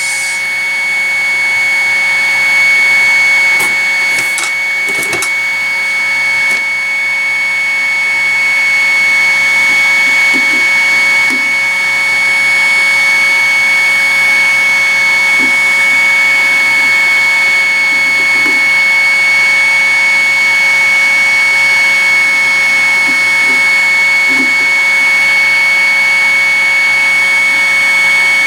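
Hot air rework station blowing steadily through a homebrew nozzle onto the CPU socket, a constant hiss of air with a high fan whine. A few faint small taps sound over it.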